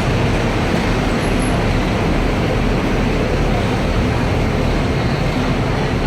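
Loud, steady road traffic noise from heavy city traffic: engines and tyres of cars and buses in a continuous roar.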